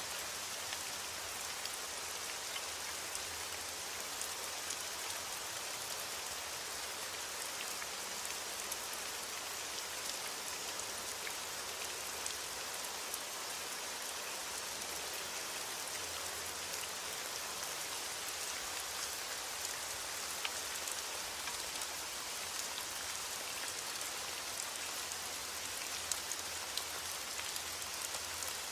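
Heavy rain falling steadily on a window: an even hiss with many small scattered drop ticks.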